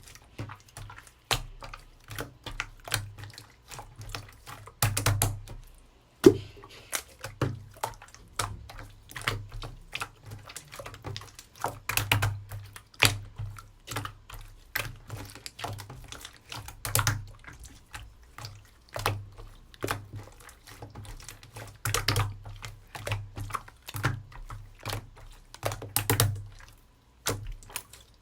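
Hands squishing and pressing a slime, giving a dense run of irregular wet clicks and pops, with louder pops every second or so.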